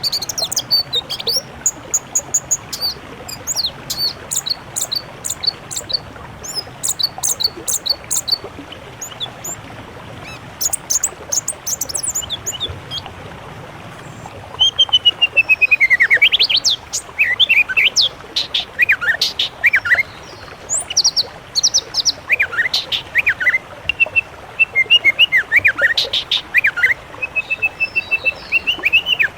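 Songbirds singing: fast, high chirps and trills at first, then, from about halfway, louder whistled phrases of down-sliding notes, over a steady hiss.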